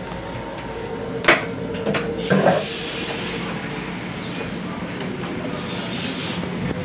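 Steady running noise of a Long Island Rail Road M7 electric railcar, with a sharp latch click about a second in and a clunk and rattle a second later as the restroom door is unlatched and opened.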